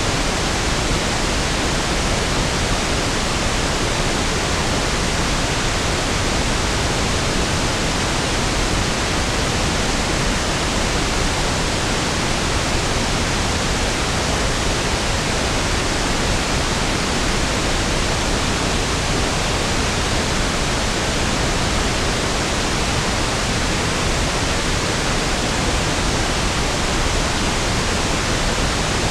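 Steady pink noise (1/f noise): an even, unchanging hiss, softer and deeper than white noise.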